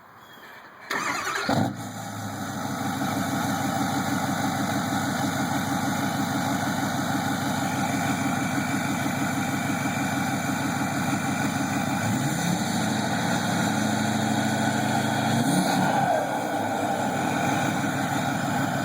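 2010 Ford F-350's 6.4-litre Power Stroke twin-turbo V8 diesel, KEM tuned and straight-piped with a 5-inch downpipe-back exhaust, cranking and starting about a second in, then idling steadily. Around twelve seconds in, the pitch rises slightly for a few seconds, then settles back.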